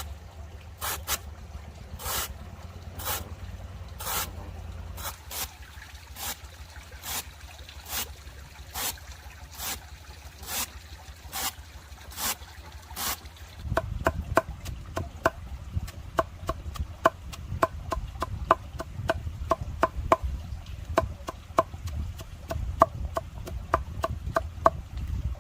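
Wood being worked with hand tools: short strokes about once a second, then from about halfway, faster, sharper knocks about three a second with a slight ring.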